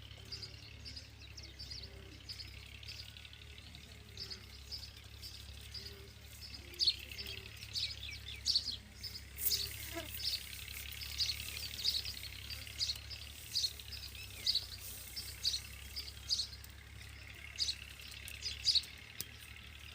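Birds calling: many short, high chirps in quick succession, growing denser from about seven seconds in, over a steady low hum.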